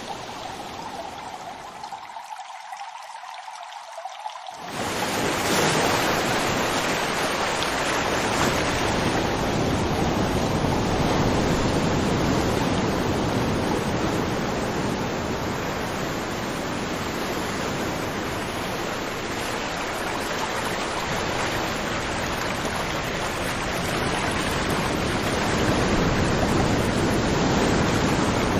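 Rushing river water: a steady, even hiss of flowing water. About four and a half seconds in it jumps abruptly louder and fuller, then runs on steadily.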